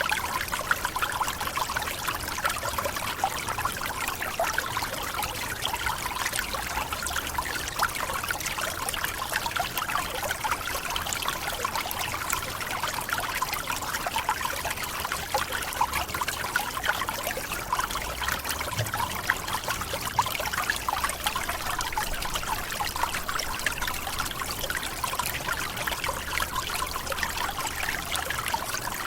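Forest waterfall: water splashing and trickling over rocks in a steady, even rush with many small splashes.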